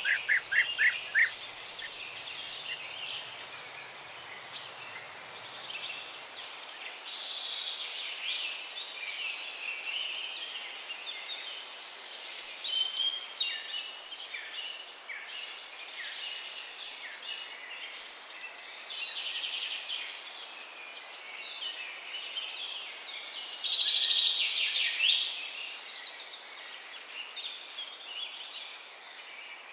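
Morning chorus of several wild birds chirping and singing over one another. A thin high call repeats every second or two throughout, and a louder rapid trill stands out about three-quarters of the way through.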